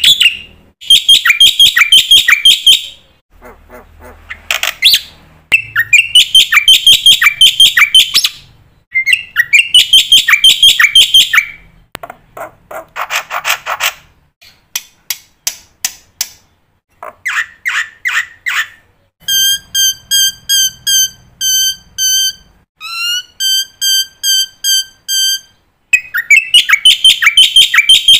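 Black-winged myna (jalak putih) singing loudly: bursts of harsh, rapidly repeated chattering notes, broken by a long run of clear, evenly repeated whistled notes about two-thirds of the way in. The song is full of phrases copied from other birds.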